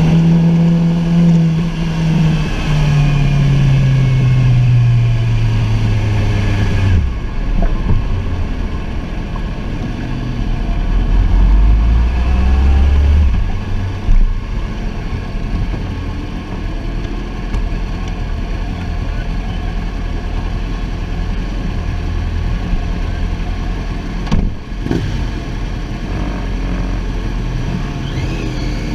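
Sportbike engine at speed on a race track: the engine note falls steadily for about seven seconds, then drops off sharply. It then runs lower under a steady rush of noise, with a louder low rumble a few seconds later.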